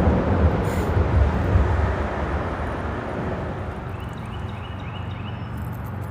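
Freeway traffic on the bridge overhead: a vehicle's loud, low rumble that fades over the first few seconds, leaving a quieter, steady traffic hum.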